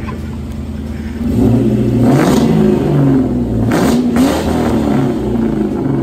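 V8 car engine idling, then about a second in the throttle is blipped repeatedly, the engine pitch rising and falling several times with two sharper revs before it settles back toward idle.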